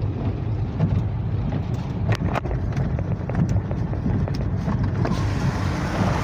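Car driving on a flooded, rain-soaked road, heard from inside the cabin: a steady low rumble of engine and tyres with a few sharp ticks. About five seconds in, a hiss of water spray rises as the car runs into standing floodwater.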